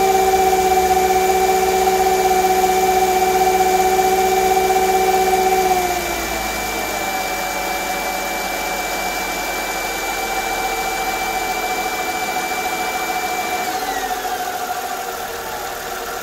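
Mercedes M112 3.2-litre V6 idling just after start-up, its new camshaft and crankshaft position sensors fitted. The idle speed drops about six seconds in, the engine note falling in pitch and getting a little quieter as it settles, with a further slow fall in pitch near the end.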